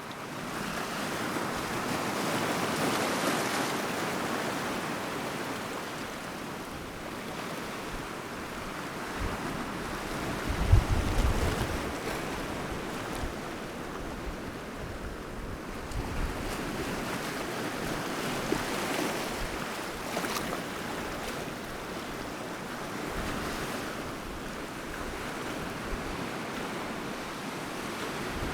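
Sea waves breaking on the shore, the wash swelling and fading as each wave comes in. Wind buffets the microphone about a third of the way through.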